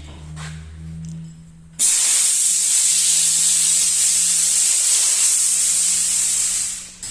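A loud, steady hiss of spray or escaping air that starts suddenly about two seconds in, lasts about five seconds and fades near the end, over a low steady hum.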